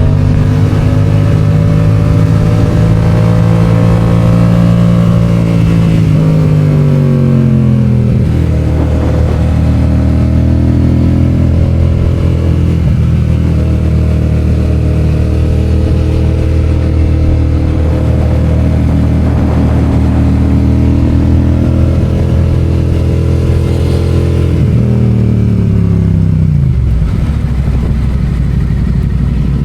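Yamaha FZ-07's parallel-twin engine on the move, held at steady revs for long stretches. The revs fall twice, about six seconds in and again near the end, before picking up again.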